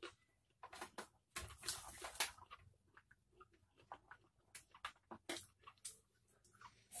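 Close-up eating sounds of a person chewing raw leafy greens: irregular crisp crunches and wet mouth clicks and smacks, with a denser stretch of crunching about a second and a half in.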